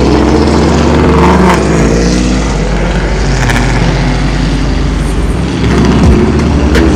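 Car engine running loudly over a low rumble, its pitch rising and falling as it revs.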